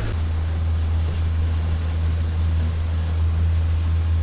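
Boat's outboard motor running, a steady, unchanging low drone heard from on board.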